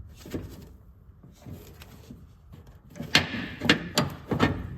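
Hand tools and hardware being handled: quiet at first, then a quick series of four or five sharp clicks and knocks from about three seconds in, as vise grips are picked up to hold a bolt for tightening.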